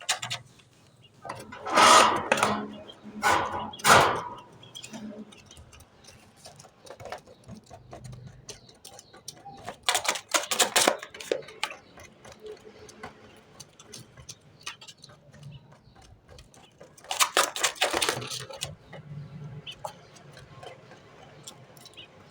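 Quail pecking at its food and flicking grains about, in several bursts of rapid clicking and rattling, with scattered lighter pecks between them.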